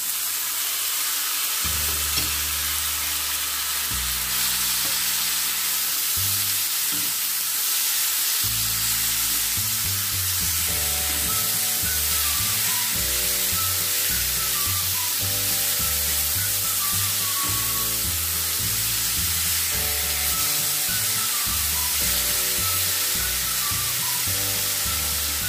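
Sliced mushrooms, onion and tomato sizzling in hot oil in a frying pan as a spatula stirs them, under background music with a stepping bass line and a melody that comes in about ten seconds in.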